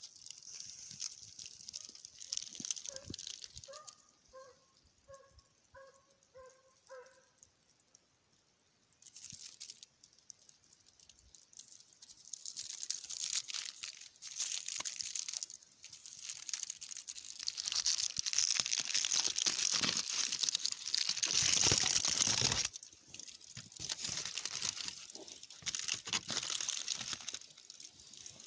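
A hound baying in the distance, a run of about eight short calls a few seconds in, as it gives voice on a hare's trail. Then a long stretch of crunching and rustling close by, loudest about three-quarters of the way through.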